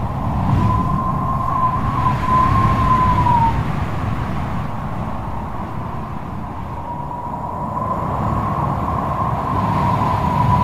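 Storm wind howling: a high, wavering whistle on one pitch that fades out a few seconds in and comes back in the second half, over a low rumbling gust noise.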